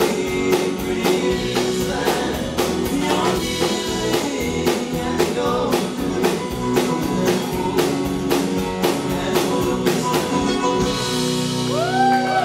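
Live band with drum kit and guitar playing an instrumental passage to a steady beat; about eleven seconds in the music stops and the audience starts whistling.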